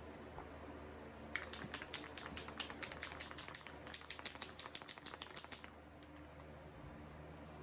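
Aerosol spray paint can being shaken, its mixing ball rattling in a quick run of clicks for about four seconds before stopping.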